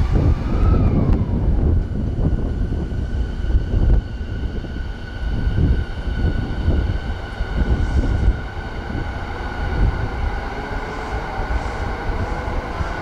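Electric train running along the platform: an uneven low rumble of wheels on rail with irregular thumps, under a steady whine from the traction motors.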